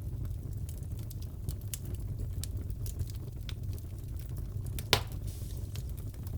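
Fireplace fire crackling: scattered sharp pops and ticks over a low, steady background, with one louder pop about five seconds in.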